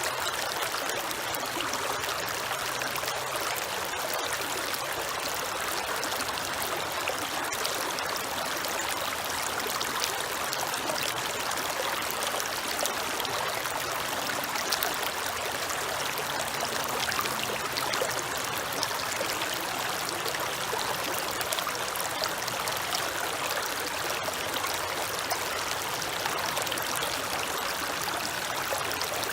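A creek flowing and trickling steadily over rocks, an even rushing water sound without pauses.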